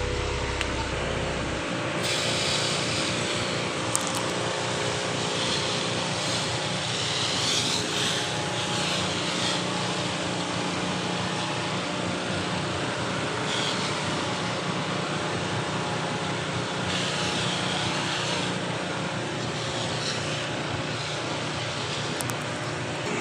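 An engine running steadily, with a hiss that swells and fades several times.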